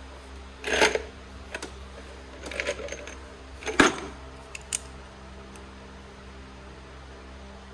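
Metal tools and parts clinking and rattling as they are handled, in several short clatters, the loudest about four seconds in, over a steady low hum.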